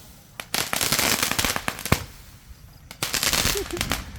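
Fireworks crackling in two runs of rapid pops, one from about half a second to two seconds in and another starting about three seconds in, with a quieter lull between.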